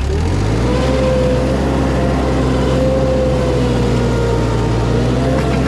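Wacker Neuson mini loader's engine running under throttle, picking back up in speed in the first half second and then holding steady, with a steady higher whine over it.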